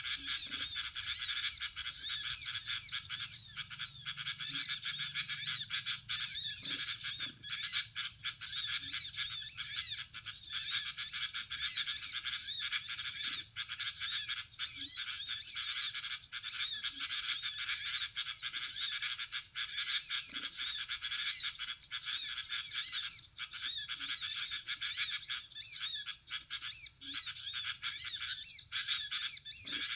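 Bird-lure playback of a 'suara ribut' recording: many small birds chirping and twittering at once, played through a small loudspeaker as a dense, unbroken chatter of high chirps.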